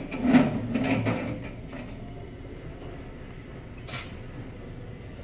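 Workshop mechanism noise, busier in the first second, with one sharp metallic clink of tools or engine parts about four seconds in.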